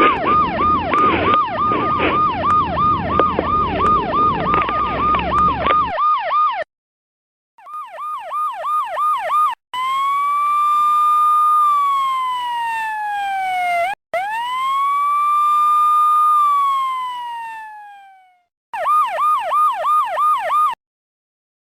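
Police car electronic siren switching between a fast yelp of about three sweeps a second and a slower wail that rises, holds and falls, twice. Traffic noise sits under the first few seconds of the yelp, and the siren stops and restarts several times before cutting off near the end.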